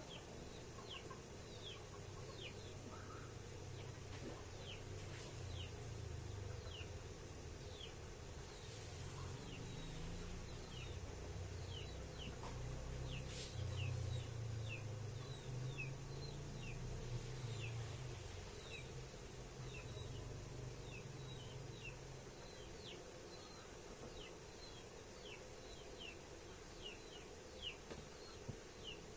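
Chickens: many short, falling peeps, a few a second, typical of chicks, with a low rumble that swells in the middle and fades near the end.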